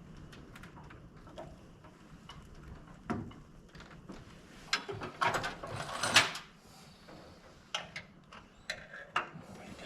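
Scattered light clicks and knocks of hand tools and metal hardware being handled, with a short run of louder scraping or rustling about five to six seconds in.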